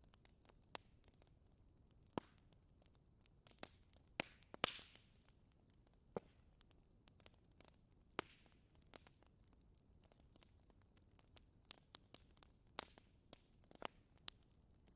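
Wood fire crackling: sparse, irregular sharp pops and snaps, the loudest about four and a half seconds in with a brief hiss after it, over a faint steady high tone.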